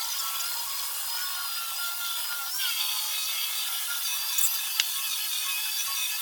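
A woodworking power tool running with a steady high whine. Its pitch dips briefly about two and a half seconds in, and there is a single sharp click about five seconds in.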